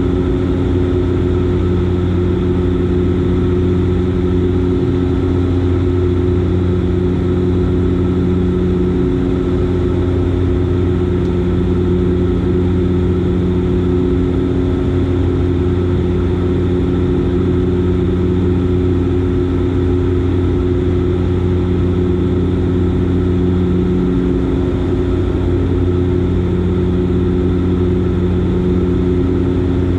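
Steady drone of a Dash 8 Q400's turboprop engines and six-bladed propellers in flight, heard inside the cabin as a constant low hum with an even steady pitch and rushing air noise.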